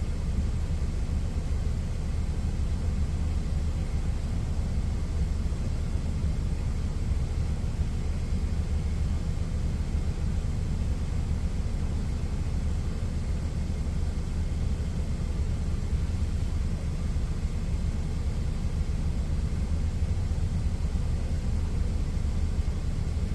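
Steady low rumble of an idling truck engine, heard inside the truck's cab.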